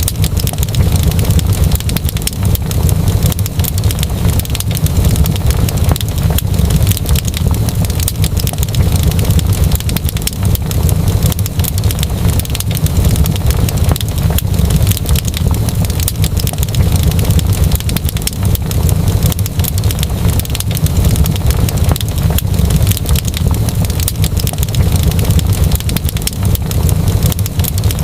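Wood fire crackling, with many quick pops over a steady low rumble of the flames.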